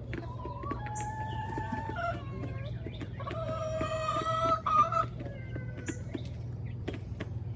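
Backyard chickens clucking and calling, with a long drawn-out call of about two seconds near the middle.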